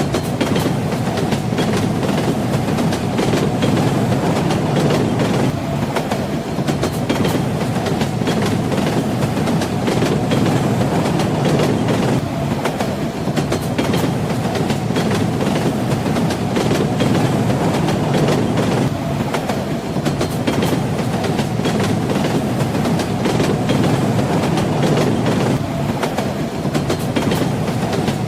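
Train wheels clattering over rail joints, with irregular clicks over the steady rumble of a moving railway carriage.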